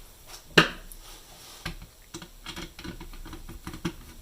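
Scattered light clicks and knocks of a radio chassis, case and screws being handled, with one sharper knock about half a second in.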